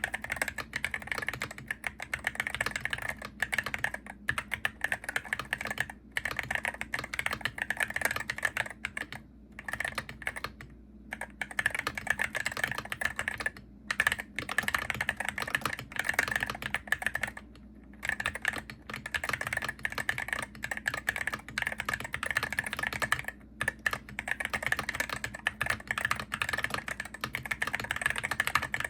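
Continuous fast typing on a Hero68HE gaming keyboard, rapid key clicks and clacks with a few brief pauses between bursts.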